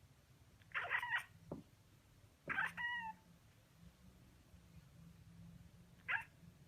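A cat making three short, odd calls: two longer ones about a second in and about two and a half seconds in, and a brief one near the end.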